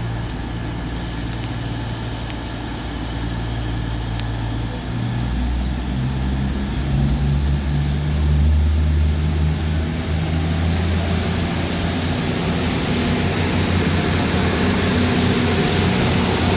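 Diesel train engine running with a low hum; about five seconds in its note steps up and grows louder. A faint high whine slowly rises near the end.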